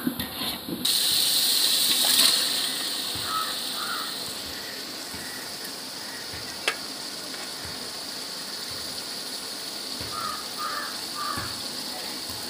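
Chicken and masala sizzling in a hot metal pot: a louder burst of sizzling about two seconds in as the chicken goes in, then a steady frying sizzle, with a single click of the slotted spoon against the pot about halfway through.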